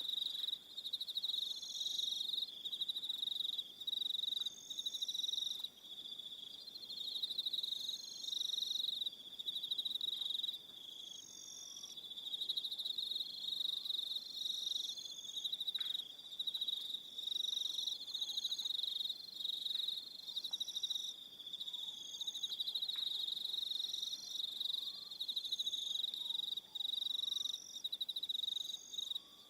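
Evening chorus of crickets: many rapid chirping trills overlapping in a steady, rhythmic pulsing that swells and dips about once a second.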